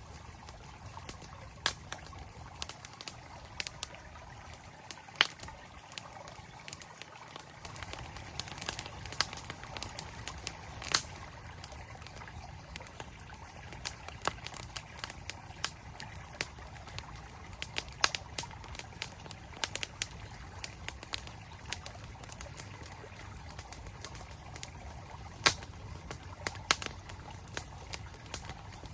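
Campfire crackling with irregular sharp pops, a few of them louder, over the steady rush of a flowing mountain stream.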